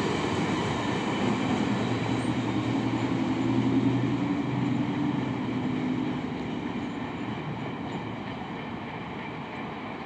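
Intermodal freight train of double-stacked containers rolling past: a steady rumble of steel wheels on rail, gradually getting quieter.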